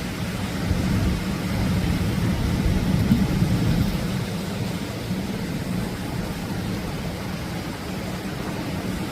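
Atlantic surf breaking on the shore: a steady rushing wash with a low rumble, swelling to a peak about three seconds in and then easing off.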